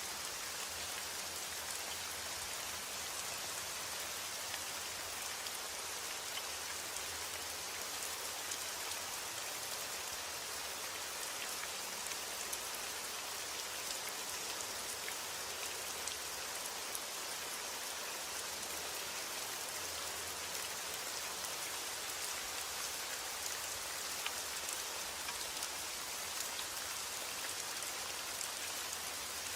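Steady heavy rain falling on a roof, with scattered sharp ticks of single drops.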